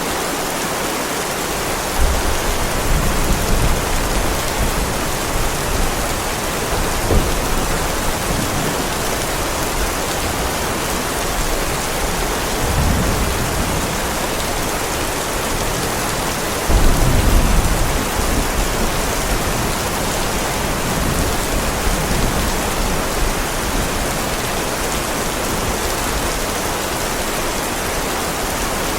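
Heavy rain falling steadily on a driveway, with low rumbles of thunder swelling several times; the loudest comes a little past the middle.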